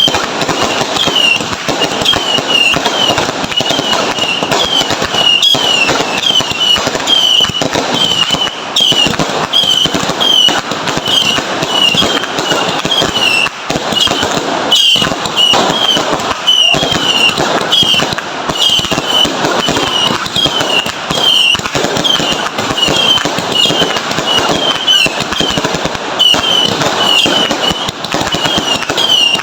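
Fireworks and firecrackers going off in a dense, unbroken crackle of many small bangs, with short high chirps repeating about twice a second.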